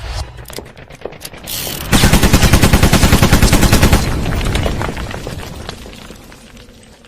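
A rapid run of loud bangs: a few scattered cracks, then about two seconds of bangs at roughly nine a second, fading into a dying crackle.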